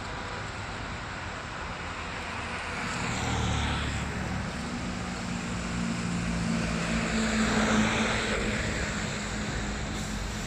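A motor vehicle's engine humming as it goes by on the street, swelling twice, about three and a half and about eight seconds in, over a steady hiss.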